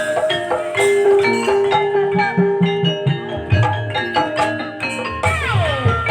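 Live Banyumasan gamelan music in campursari style: metallophones ringing melodic notes over drum strokes, with a tone sliding down in pitch about five seconds in.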